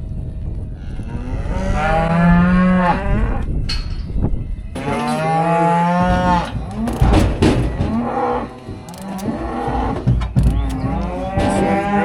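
Beef cows mooing: two long calls about two and five seconds in, with another starting near the end, and sharp knocks and clatter in between.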